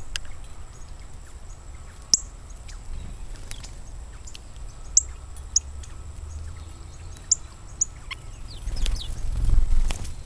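Small birds chirping with short, sharp, high chirps scattered a second or so apart, and a few quick falling notes near the end. A low rumble swells up near the end and is the loudest sound.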